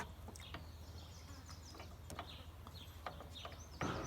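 Faint scattered clicks and small knocks from hand work on a truck starter being taken apart, with a louder clatter near the end. Faint bird chirps sound in the background.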